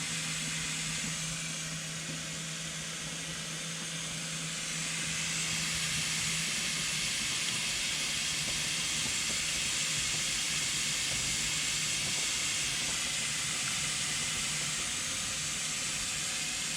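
Steady hiss of water running from an RV faucet opened on its hot side, flushing winter antifreeze out of the lines. A steady low hum runs under it and fades about six seconds in.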